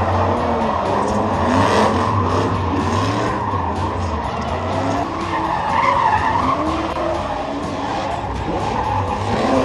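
Several race car engines running hard on a track, their pitch repeatedly rising and falling as the cars rev and pass, over a steady wash of tyre and road noise.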